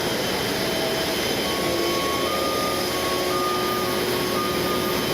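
Steady airport-apron machinery noise: a loud rushing drone with a high whine that steps slightly up and down in pitch.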